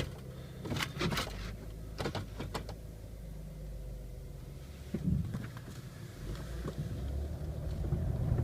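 2001 Chevrolet Impala's engine running at idle, with a few sharp clicks in the first three seconds and a knock about five seconds in. The engine sound builds over the last two seconds as the test drive gets under way.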